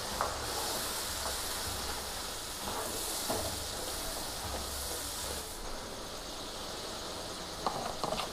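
Mutton sizzling with spices and tomato-onion puree in a frying pan: a steady frying hiss that eases about five and a half seconds in, with a few light clicks.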